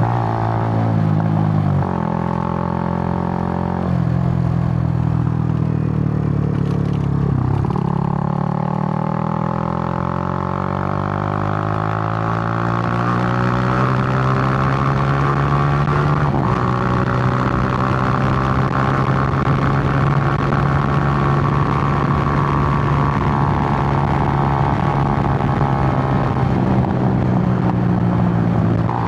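Suzuki GN125's single-cylinder four-stroke engine running under way, with wind rush on the microphone. The engine note changes several times in the first eight seconds, then engine speed climbs slowly and eases off again over a long steady stretch.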